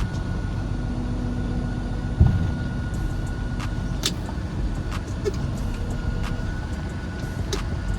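A 2023 Western Star dump truck's diesel engine runs steadily with the PTO engaged and the dump body raised, a steady high whine alongside it. There is one heavy thump about two seconds in and a few sharp clicks.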